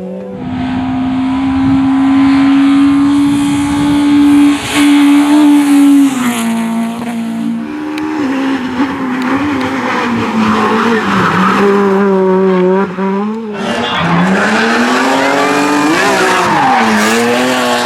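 Rally car engine at high revs under full throttle, held steady for a few seconds then stepping down through several gear changes. About 13 seconds in the sound cuts abruptly to a rally car engine revving up and down as it is worked on and off the throttle.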